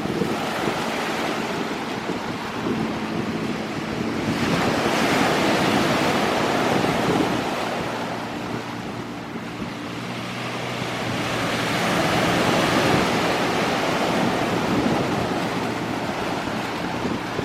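Sea waves washing onto the beach, swelling and easing twice, with wind rumbling on the microphone.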